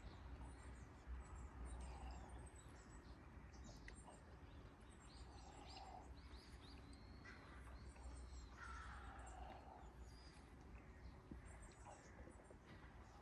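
Faint outdoor ambience: scattered bird calls and chirps over a low, steady rumble.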